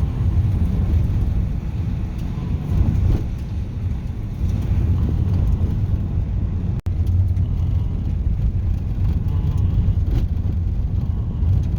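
A car driving, with a steady low rumble of road and engine noise. The sound cuts out very briefly about two-thirds of the way in.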